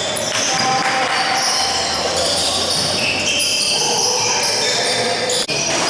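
Sounds of a basketball game in play: a ball bouncing on the court amid a busy mix of overlapping voices.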